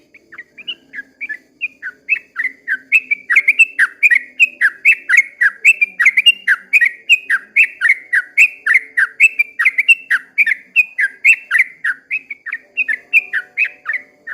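Yellow-vented bulbul singing a long rapid run of short, bubbly repeated notes, about three a second, growing louder over the first couple of seconds and then stopping abruptly near the end.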